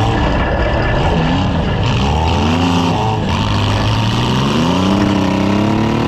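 Several compact demolition-derby cars' engines revving up and down over one another, loud and continuous.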